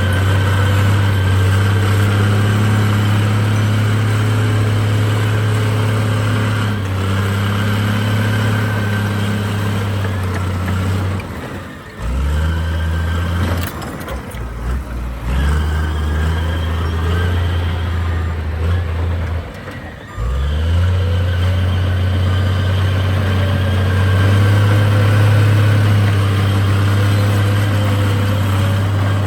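Heavy diesel engine of earthmoving machinery running steadily under load. Its note drops away briefly about eleven seconds in and again around twenty seconds, each time picking back up.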